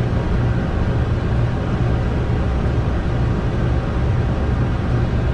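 Steady rush of airflow and engine noise inside a Boeing 747-200's flight deck during the climb just after takeoff, with a low hum underneath.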